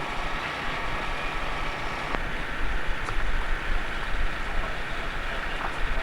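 Engine running steadily, with a rumbling noise and a single sharp click about two seconds in.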